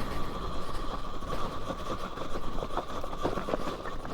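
Talaria Sting R MX4 electric dirt bike's motor whining steadily under load on a steep, rocky hill climb, with scattered knocks and clatter as the bike goes over rocks, more of them in the second half.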